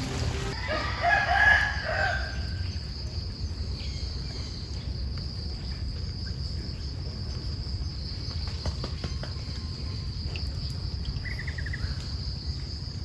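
A rooster crows once, starting about a second in, over a steady high-pitched insect trill that runs on underneath; a short run of bird chirps comes near the end.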